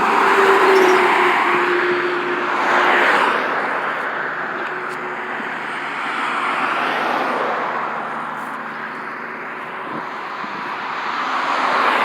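Road traffic: several vehicles passing one after another, their tyre and engine noise swelling and fading in turn, with a faint steady whine in the first two seconds.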